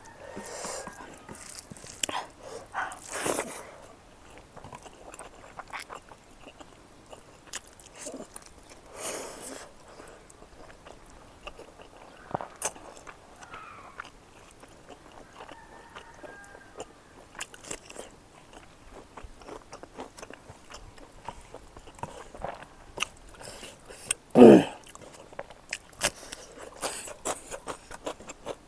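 Close-miked chewing and biting of smoked pork fat and seasoned grains: many short clicks, moist mouth sounds and light crunches, with one louder brief sound near the end.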